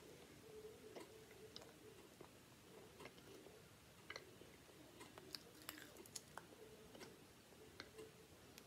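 Faint chewing of a soft pancake topped with yogurt and marshmallow cereal, with scattered small mouth clicks.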